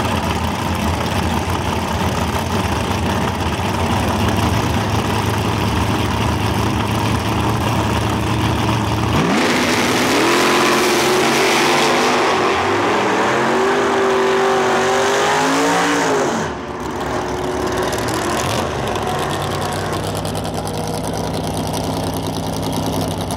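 First-generation Chevrolet Camaro drag car idling at the starting line, then launching hard about nine seconds in. The engine note climbs and drops back with each gear change as the car pulls away down the strip, and it falls off sharply after about sixteen seconds.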